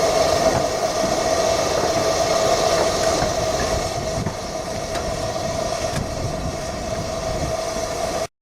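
Romney, Hythe & Dymchurch Railway 15-inch-gauge train running, with a steady tone held over the wheel and track noise throughout.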